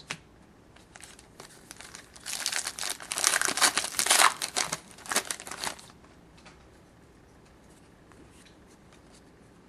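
Trading card pack wrapper being torn open and crumpled, a crinkling, tearing run of a few seconds, followed by faint light ticks as the cards are handled.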